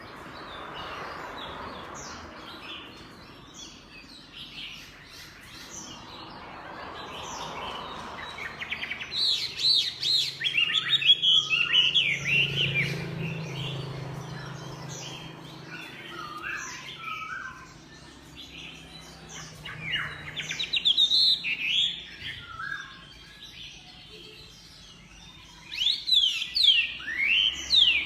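Chinese hwamei singing: bursts of rapid, varied whistled phrases and sweeping notes, with softer, quieter passages between the loud bursts.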